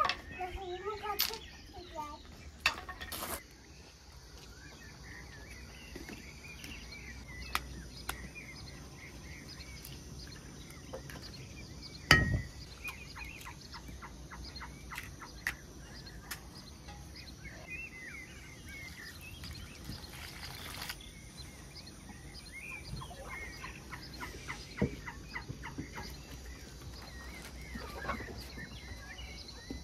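Birds chirping in the background, with scattered soft clicks and one sharp knock about a third of the way through.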